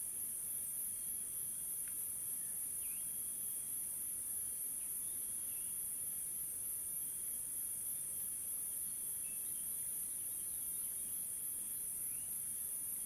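Steady high-pitched insect chorus of crickets or similar insects, an unbroken buzzing trill with a few faint short chirps scattered through it.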